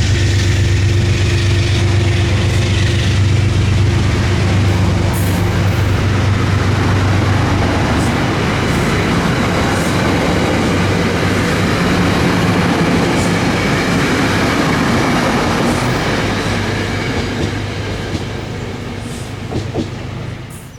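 Passenger train passing close by at speed: a low steady hum over the first several seconds, then the rumble of the cars going by, fading away near the end.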